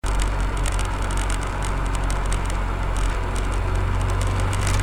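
Car being driven: a steady low engine and road hum with crackling hiss over it.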